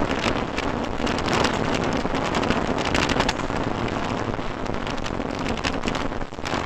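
Steady rushing road and wind noise of a moving car, picked up by a dashboard camera's microphone, with a dense crackle of small ticks through it.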